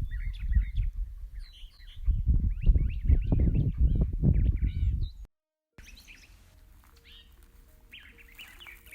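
Wild birds chirping and singing, many short calls overlapping, over a loud low rumble for the first five seconds. The sound drops out briefly about five seconds in, then the birdsong goes on, quieter.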